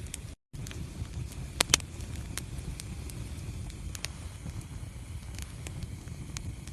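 Wood fire burning in a fireplace: a steady low rumble of flames with scattered sharp crackles, and two loud pops just under two seconds in. The sound cuts out for an instant about half a second in.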